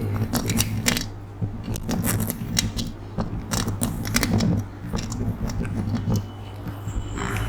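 Irregular close-miked clicks and small scratching taps, a few per second, over a low steady hum.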